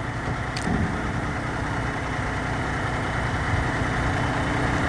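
A vehicle running steadily, engine and road noise, slowly growing louder, with a small click about half a second in.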